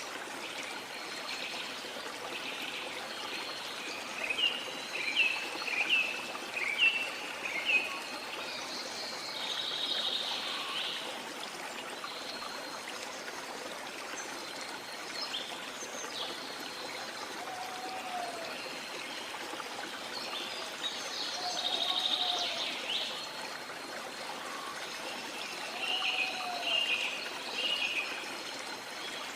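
Steady rush of a waterfall's flowing water, with rainforest birds calling over it: a quick run of short, high chirps early on is the loudest part, buzzy calls come twice, and a few lower whistled notes sound in the second half.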